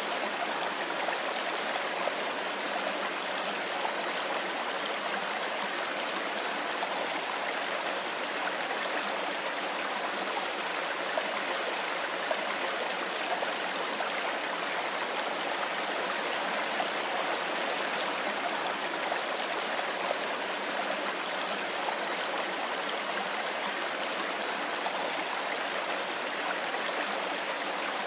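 Mountain river flowing over stones, a steady rushing and babbling.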